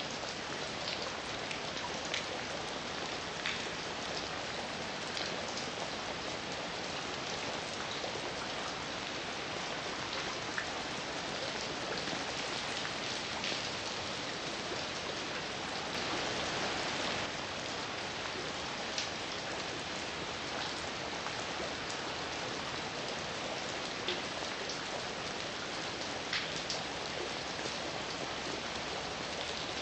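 Heavy rain falling steadily, with scattered sharper drop hits and a brief swell in intensity about halfway through.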